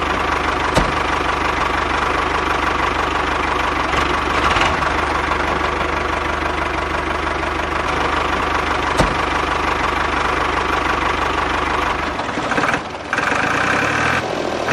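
An engine running steadily, its sound changing briefly about twelve seconds in.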